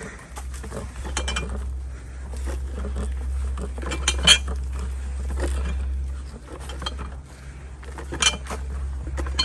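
Light clinks and knocks of objects being handled or jostled, scattered irregularly, with a sharper clink about four seconds in and another near the end, over a steady low rumble.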